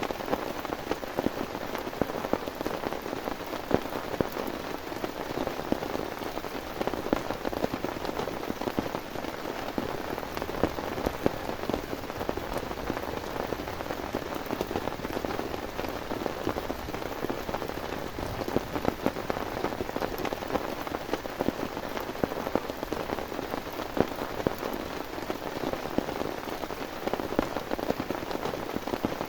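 Heavy rain falling steadily, a dense hiss with many sharp individual drop hits.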